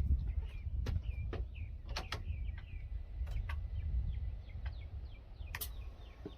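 Small birds chirping over and over in short falling notes, over a low rumble. Several sharp clicks cut in, the loudest about five and a half seconds in.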